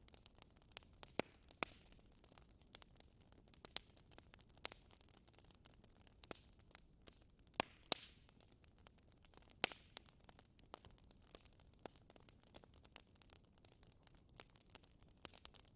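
Wood fire burning in a fireplace, crackling: irregular sharp pops and snaps over a faint hiss, with a few louder pops scattered through.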